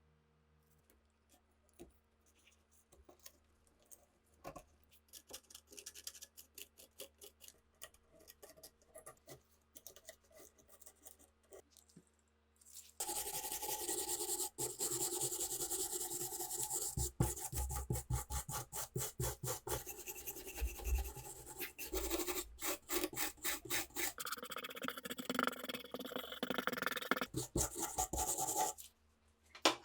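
Abrasive rubbing on a rifle part being cleaned of rust by hand: light, scattered strokes at first, then loud, rapid back-and-forth scrubbing from about halfway through until just before the end.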